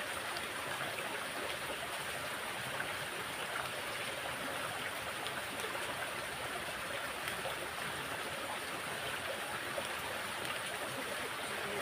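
Steady rush of water flowing in a drainage ditch after heavy rain.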